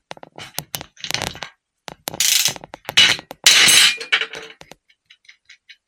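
Ratchet and deep socket undoing the nut on a starter solenoid's power-terminal post: bursts of rapid ratchet clicking with metal clinks, then a run of lighter, evenly spaced ticks near the end.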